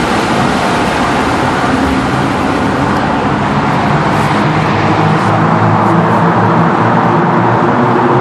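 Nissan Altima SE-R's 3.5-litre V6 running under way in a tunnel, breathing through a cold air intake with the stock exhaust. It grows a little louder from about five seconds in.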